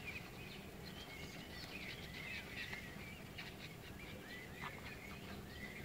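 Faint songbird chirping: many short, quick calls from wild birds, scattered throughout.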